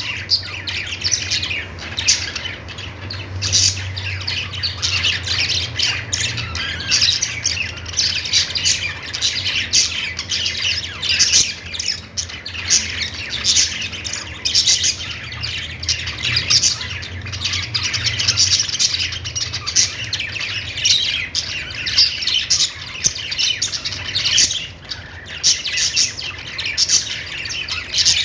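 Budgerigars chattering and warbling without pause, quick chirps mixed with squawks, over a low steady hum.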